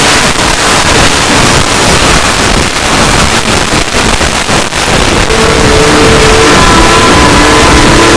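A very loud, dense roaring noise with rough, crackling texture. About five seconds in, several steady held tones join it.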